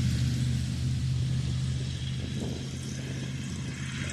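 A vehicle engine running with a steady low hum that slowly fades.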